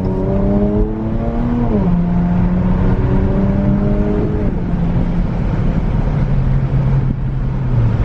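Dodge Challenger's engine pulling under acceleration, its pitch climbing and then dropping sharply twice as it shifts up, about two seconds in and again near the middle, then running steady at a lower pitch.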